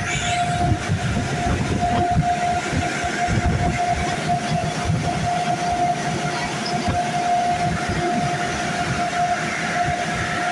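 Car wash dryer blowers running: a loud, steady rushing roar with a constant pitched whine over a rumbling low end.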